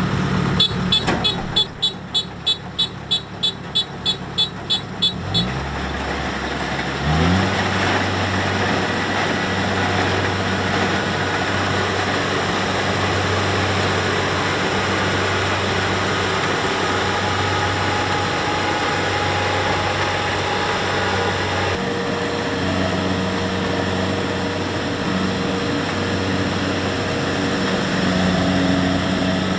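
Kubota DC70X combine harvester's diesel engine running, with an electronic warning beeper sounding about three times a second for the first few seconds. The beeping stops, the engine revs up, and it then runs steadily at working speed.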